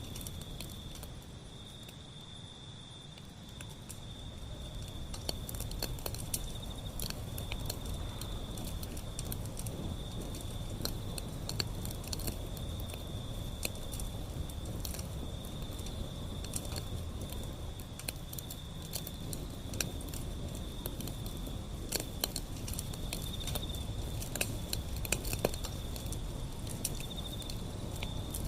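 Wood fire burning, with frequent sharp crackles and pops over a low rumble of flame. A steady high-pitched trill runs alongside.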